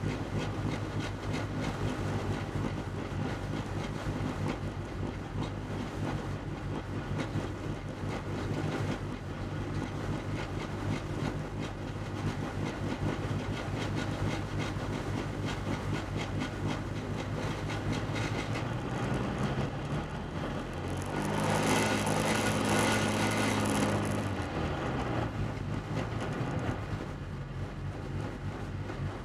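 VW Beetle's air-cooled flat-four engine running hard under race load with a steady drone. About two-thirds of the way in its pitch climbs and holds for a few seconds under a loud hiss, then falls back.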